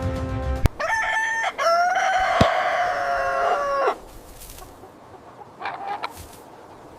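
Rooster crowing: a short first note, then a long held note that drops in pitch at the end, followed by a short, fainter call a couple of seconds later.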